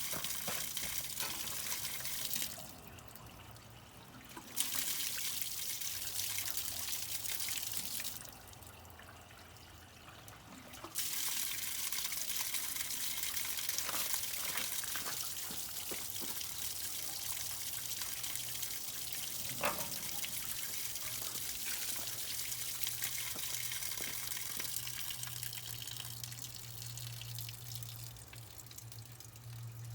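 Water running through a snowcat's radiator to flush out rusty water, a steady splashing hiss that stops twice for a second or two and then resumes.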